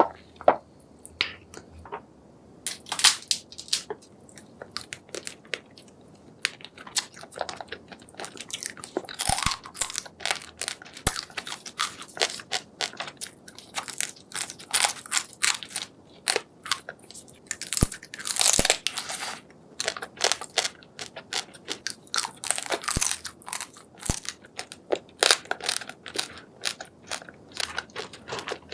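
Close-miked chewing and biting of spicy seafood, with a dense, irregular run of crunching clicks and crackles.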